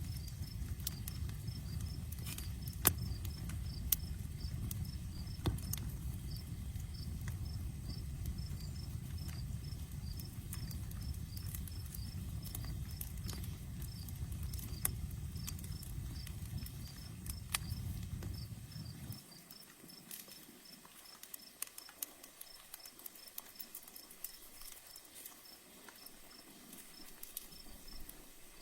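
Outdoor campfire crackling with scattered sharp pops, a few of them louder in the first several seconds, over crickets chirping steadily. A low rumble underneath cuts off about two-thirds of the way in.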